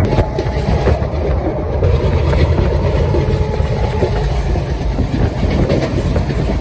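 A train rolling along the track, its wheels clattering over rail joints above a heavy low rumble.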